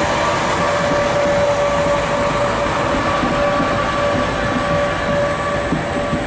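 A passenger train of double-deck regional coaches rolling past at speed: a steady rush and rumble of wheels on rail with a few steady whining tones over it. It eases off slightly near the end.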